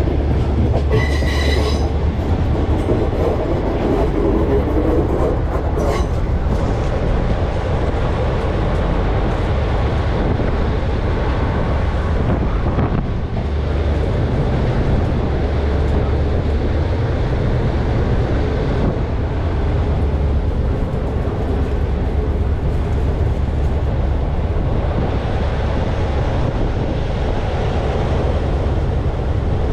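Regional passenger train running along the track, heard at a carriage window: a steady rumble of wheels on rail with a constant low roar. A brief high wheel squeal comes about a second in, and a single knock about six seconds in.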